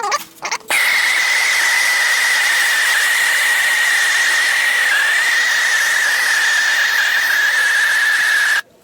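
Handheld gas torch burning with a loud steady hiss and a high whistling tone, lit about a second in and shut off abruptly near the end. The flame is heating the wood so the moisture in it turns to steam and raises dents back up.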